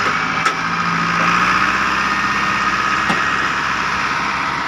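Tractor engine running steadily with an even low hum, with two short knocks, about half a second in and about three seconds in.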